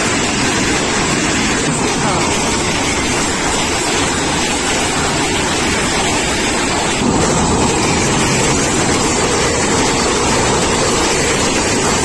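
Passenger coaches of a Pakistan Railways express passing close at speed: a loud, steady noise of steel wheels running over the rail track. About seven seconds in the sound changes as the train rolls over a girder bridge.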